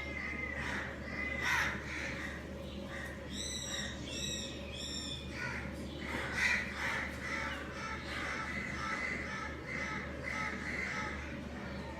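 Budgerigars chattering and warbling continuously. A bird gives three sharp, quick repeated calls about four seconds in.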